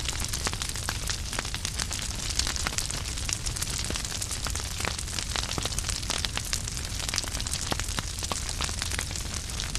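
Wood fire crackling in a fireplace: a steady hiss and low rumble of flames with frequent irregular sharp pops and snaps of burning logs.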